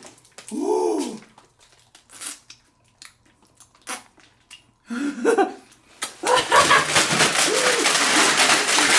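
A child's voice giving short high exclamations and giggles, with scattered small clicks between them, then a busier stretch of voice and noise from about six seconds in.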